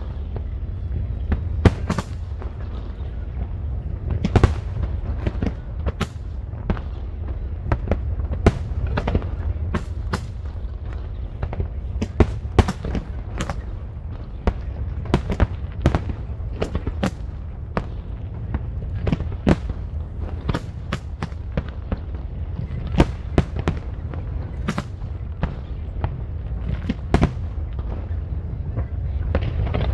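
Aerial fireworks going off: a rapid, irregular string of sharp cracks and pops, several a second, over a steady low rumble.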